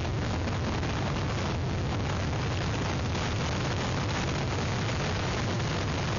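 Hurricane winds blowing over an outdoor microphone: a steady, unbroken rush of noise, heaviest in the low end.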